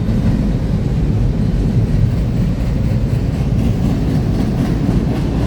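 Freight train rolling past at close range: a loud, steady rumble of wheels on the rails.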